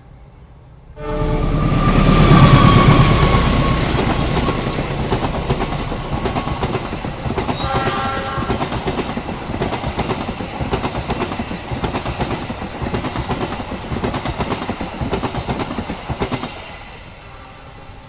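Passenger train hauled by a CC206 diesel-electric locomotive passing close by: a sudden loud rush as the locomotive arrives about a second in, then the steady rhythmic clickety-clack of the coaches' wheels, which drops away as the last coach passes near the end.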